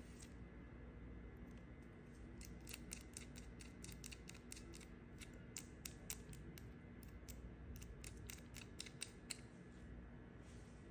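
Knife cutting dry soap: a run of crisp, irregular clicks and crackles that starts about two seconds in and stops near the end.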